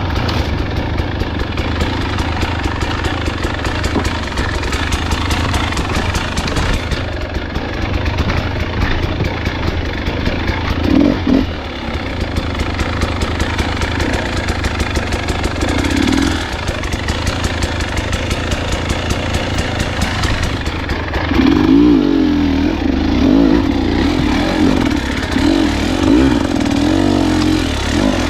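Dirt bike engine running at low, steady throttle, with short blips of throttle about 11 and 16 seconds in, then repeated revving from about 21 seconds on.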